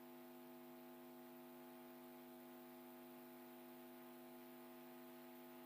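Near silence with a steady electrical hum, a low buzz with a stack of even overtones that does not change.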